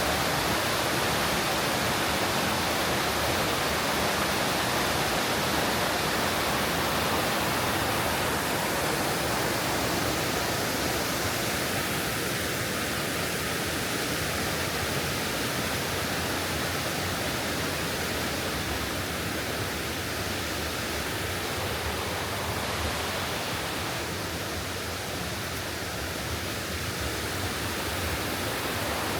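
Water rushing steadily down a mountain stream's waterfall, a continuous even noise with no breaks.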